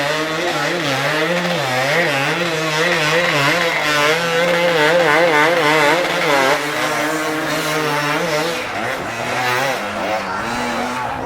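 Enduro motorcycle engine revving, its pitch rising and falling quickly over and over as the throttle is worked. About three quarters of the way through the note drops and the pattern changes.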